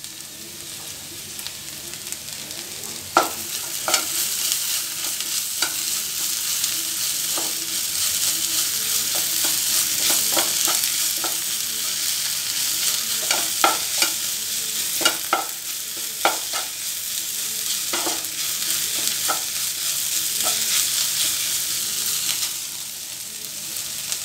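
Okra and onions sizzling in a nonstick frying pan over high heat, stirred with a wooden spatula that scrapes and taps against the pan every so often. The sizzle grows louder after several seconds and drops back shortly before the end.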